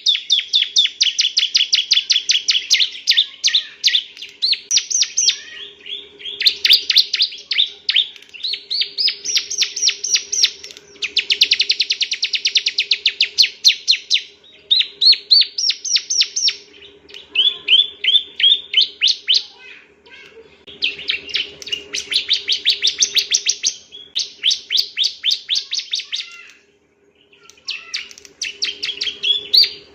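Male bar-winged prinia (ciblek) singing: fast trills of sharp, rapidly repeated notes in loud phrases of a few seconds each, separated by short pauses, with one brief silence near the end. A faint steady hum runs underneath.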